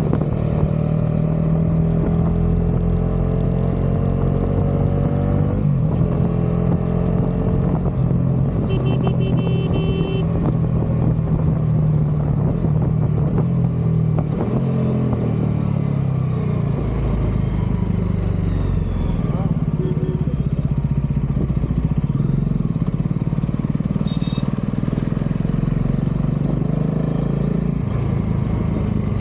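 Bajaj Dominar 400's single-cylinder engine and exhaust running under way. The note rises steadily as it accelerates for the first several seconds, then drops in steps about halfway through, with a short high beeping about nine seconds in.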